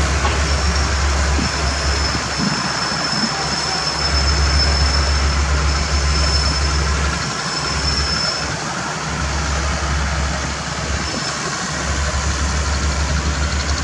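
Thai passenger train's coaches rolling slowly past along the platform: a steady rumbling noise, with a low rumble that comes and goes and a faint high whine during the first eight seconds or so.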